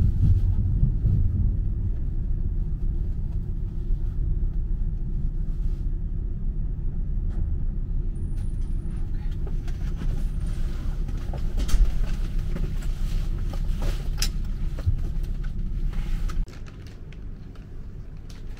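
Sleeping car of a night train rolling into a station, heard from inside: a steady low rumble with scattered clicks and knocks from the wheels over joints and points, and a brief high squeal about eight seconds in. About sixteen seconds in the rumble drops away to a much quieter compartment sound.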